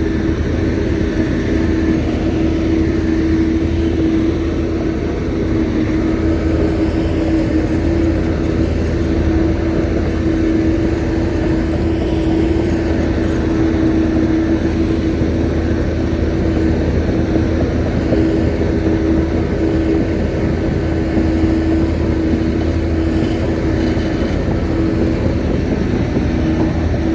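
Shantui bulldozer's diesel engine running steadily, with a constant droning tone and no breaks.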